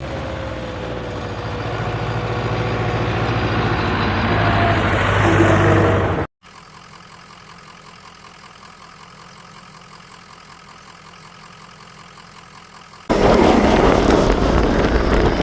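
Engine-like machine running in three abrupt cuts: it grows steadily louder for about six seconds and stops suddenly, then a much quieter steady running, then loud again for the last two seconds.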